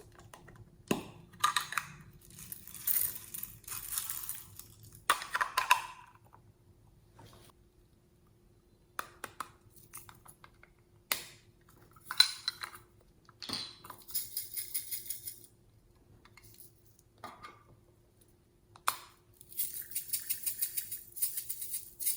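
Small hard objects and containers being handled: separate clicks, taps and short clatters, with two runs of fast, even ticking, one a little past the middle and one near the end.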